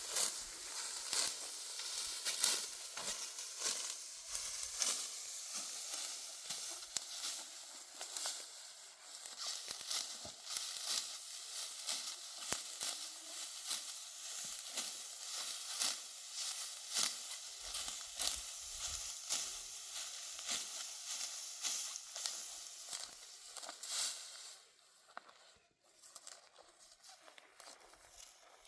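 Dry wheat stalks crackling and rustling in many quick, irregular crunches, dying away near the end.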